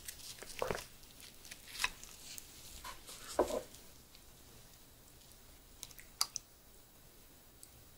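Close-miked chewing, with a few wet mouth clicks and squishes over the first few seconds. Then it goes faint, with a few light clicks of chopsticks in a tin of fermented herring a little after the middle.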